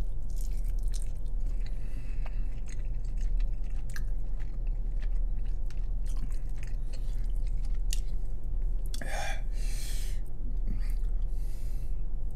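A man chewing a bite of chicken wing, with many small wet mouth clicks and smacks over a steady low hum. A breath out about nine seconds in.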